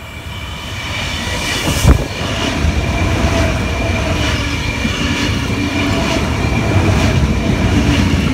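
A Sydney Tangara electric train passing through the station, its noise building over the first few seconds into a steady rumble of wheels on rail, with a sharp thump about two seconds in and regular clicks of the wheels running over the track.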